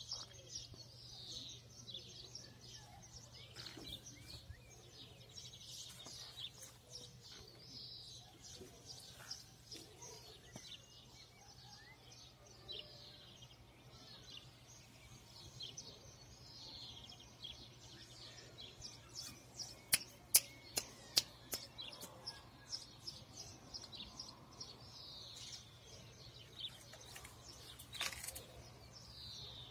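Birds chirping over and over, with a quick run of about five sharp clicks about two-thirds of the way through and another click near the end, over a faint low steady hum.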